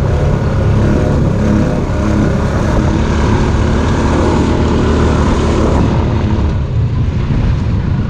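An off-road vehicle's engine running steadily.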